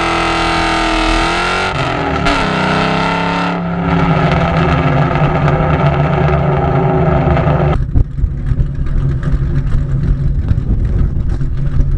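Ford Mustang GT's 4.6 modular V8, with PI heads, Comp Cams 262 cams and SLP LoudMouth exhaust, held at high revs for a burnout with a brief dip about two seconds in. About eight seconds in the revs drop off and the engine runs on rough and uneven.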